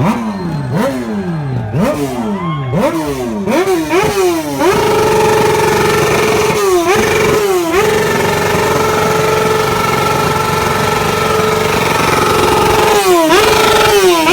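Motorcycle engine being revved hard: a quick run of throttle blips that rise and fall in pitch, then revs held high and steady, dropping briefly twice in the middle and twice near the end.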